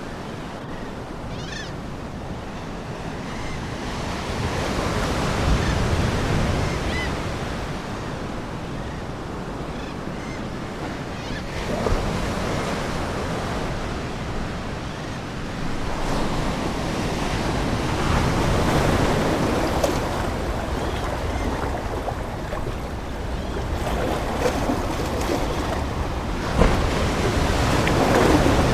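Ocean waves washing in, swelling and easing in surges every few seconds.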